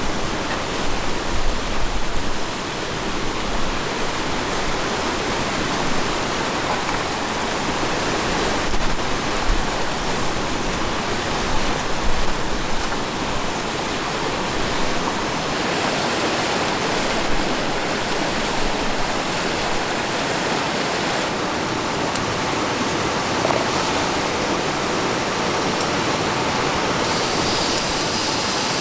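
Steady rushing noise of wind and river water, with low wind buffeting on the microphone in the first couple of seconds.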